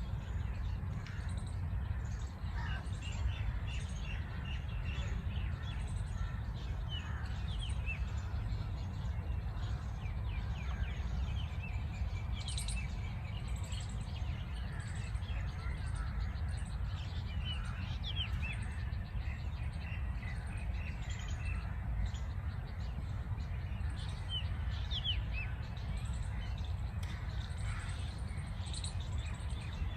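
Many small birds chirping and twittering in a dawn chorus, short calls overlapping throughout, over a steady low rumble.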